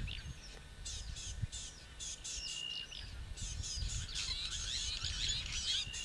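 A chorus of wild birds chirping and trilling, busiest in the second half, with one short steady whistle about two and a half seconds in; a faint low rumble underneath.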